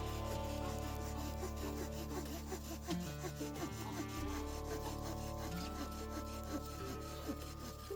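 A saw cutting through wood, stroke after stroke, over background music.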